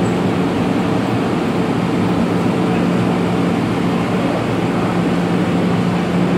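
Steady hum and rumble inside an MTR M-train car, with a low steady tone running underneath.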